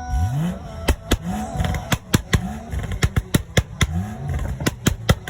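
A performance car's engine blipped in short repeated revs, each rise in pitch followed by a quick string of loud, sharp exhaust pops and bangs.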